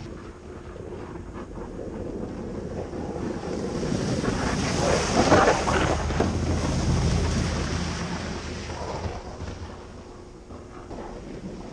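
Snow plow truck running, its engine a steady low hum under a rushing noise that swells to a peak about halfway through and fades again.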